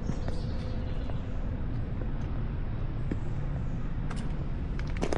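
Steady low outdoor rumble with a faint steady hum, and a few light clicks near the end.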